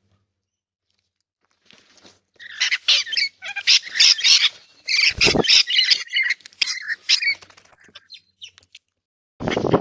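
Birds squawking in a rapid run of harsh, scratchy calls for about five seconds, starting about two seconds in, with a short thump about five seconds in and another burst near the end.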